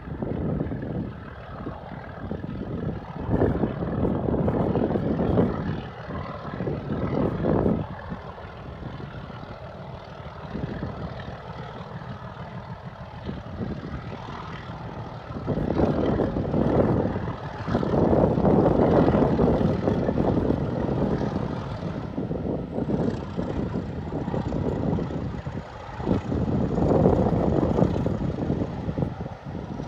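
A locomotive at work hauling a heritage train, its heavy mechanical running noise swelling and fading in several waves.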